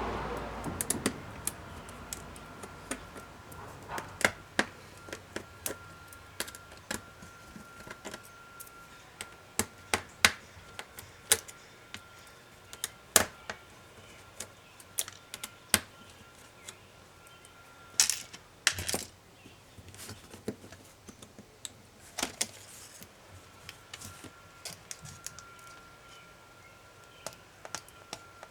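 Irregular small clicks and taps of HP ProBook 450 G5 laptop parts, plastic and metal, being handled and pried apart by hand, with a louder cluster of clicks a little past the middle.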